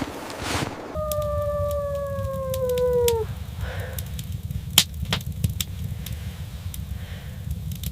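A wolf howls once, one slightly falling note lasting about two seconds, over a low steady rumble with scattered sharp clicks.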